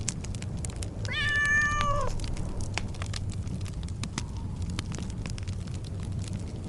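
A cat meows once, about a second in, a single call lasting about a second, over the steady crackling and popping of a wood fire burning in a fireplace.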